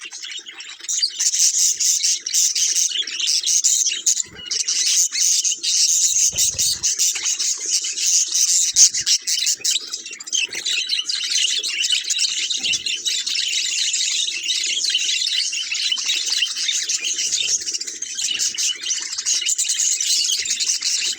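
Budgerigars chattering and warbling, many quick high calls overlapping without a break.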